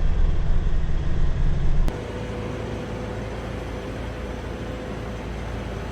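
Vehicle driving noise from a light box truck on the road: a low, loud rumble of engine and tyres. About two seconds in, it drops suddenly to a quieter, steady running noise with a faint hum.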